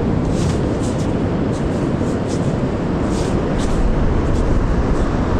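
Steady wind rumble buffeting the microphone, with a few short scratchy clicks scattered through it.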